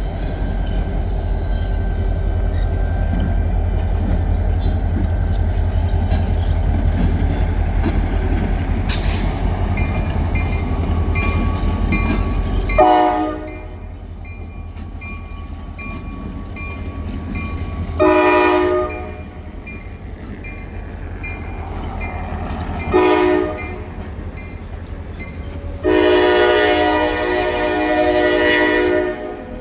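Diesel freight train rumbling past with wheel clicks, then the locomotive horn blowing the grade-crossing signal: two long blasts, a short one and a final long one.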